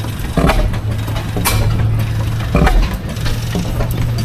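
An engine idling with a steady low hum, with three sharp pops or clanks about a second apart.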